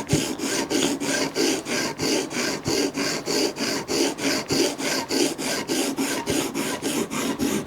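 Sharpening stone rubbed rapidly back and forth along a steel knife blade, grinding the edge in an even rasping rhythm of about five strokes a second.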